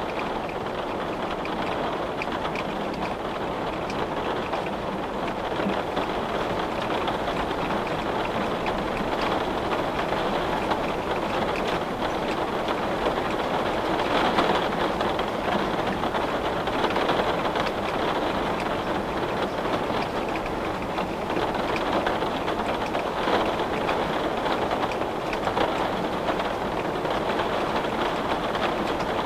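Steady rain falling and pattering on a window, with slight swells in intensity.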